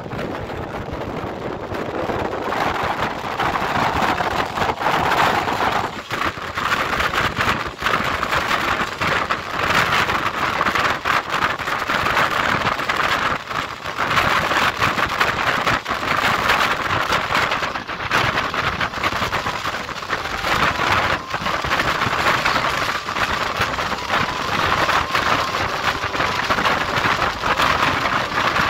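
Passenger train coaches running at speed, heard from an open doorway: a steady rush of wheels on the rails and moving air, with a continual light clatter running through it.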